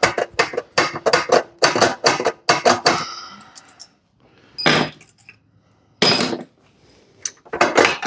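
Metal engine parts of a Briggs & Stratton Intek V-twin clicking and clanking as the stuck, bent camshaft and its valve-train parts are worked loose by hand. A quick run of rattling knocks comes first, then two separate ringing metal clanks past the middle.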